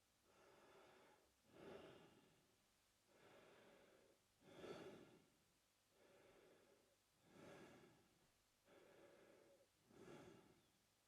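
A man breathing slowly and evenly through his mouth, faint, with each breath in and out taking about three seconds, about four breaths in all.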